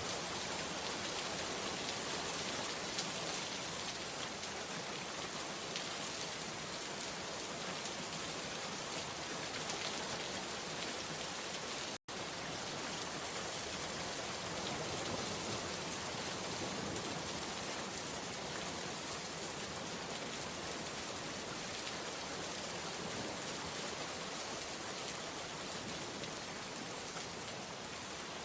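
Steady, even rain falling, with the ticks of individual drops. The sound drops out for an instant about twelve seconds in.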